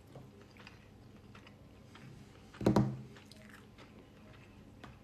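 A person chewing a mouthful of couscous salad, with faint, soft wet mouth clicks. There is one louder, brief sound a little past halfway.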